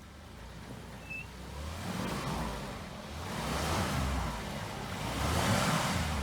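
An off-road 4x4's engine revs in about three surges as it pushes through snow, with a hiss of tyres churning snow rising with the later surges.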